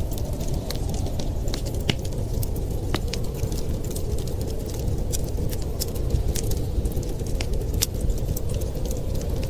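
Wood fire crackling with many small irregular pops and snaps, over a steady low rumble of storm wind.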